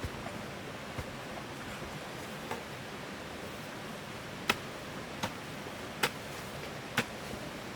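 A series of sharp, short knocks or taps over a steady hiss: a few spread out early, then about one a second in the second half.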